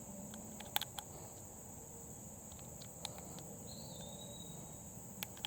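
Steady high-pitched drone of insects, crickets, with a few faint clicks scattered through and a brief thin whistle a little past the middle.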